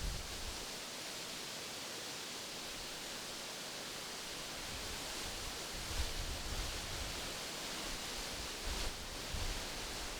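Wind rustling through tree leaves as a steady hiss. From about six seconds in, light gusts add low rumbles of wind on the microphone.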